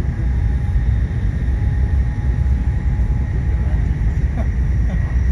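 Cabin noise of a Nishi-Kyushu Shinkansen Kamome N700S train at speed: a steady low rumble.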